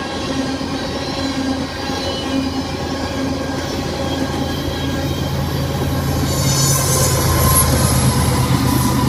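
Freight train hopper cars rolling past over a grade crossing, steel wheels on rail. About halfway through, the low drone of a mid-train BNSF distributed-power diesel locomotive (5949) builds and grows louder as it comes past.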